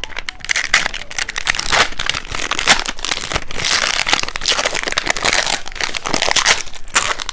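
Plastic snack packaging crinkling and crackling as it is handled, with a dense run of sharp crackles.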